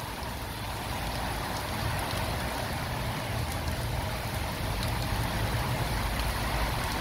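Heavy rain pouring down steadily: a dense, even hiss with a low rumble underneath.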